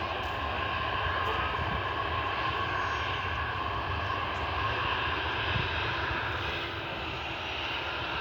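Jet airliner engines running: a steady rushing noise with a faint, even whine.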